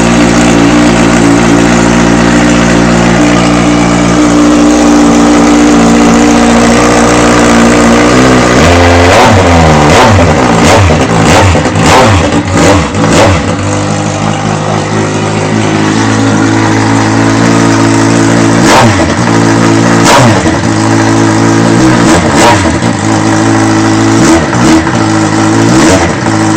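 Kawasaki Z1000 inline-four engine running with no exhaust fitted: a loud, steady fast idle for about eight seconds, then a quick series of throttle blips revving up and dropping back, followed by single revs spaced a second or two apart near the end.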